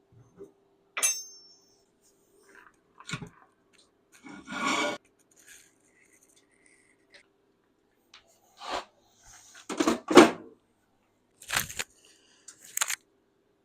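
Scattered metal clinks and knocks of bolts and tools being handled, one clink ringing briefly near the start, a scraping rustle about four seconds in and the loudest knocks about ten seconds in, over a faint steady hum.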